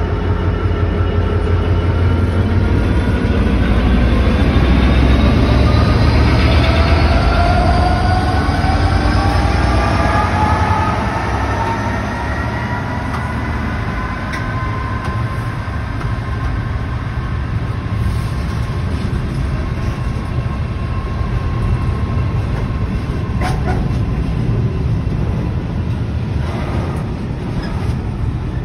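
Class 66 diesel-electric freight locomotive, an EMD two-stroke V12, pulling a container train past: a heavy engine rumble with several whines that rise in pitch as it gathers speed over the first dozen seconds, then level off. The container wagons then roll by, with a few sharp clicks of wheels over rail joints.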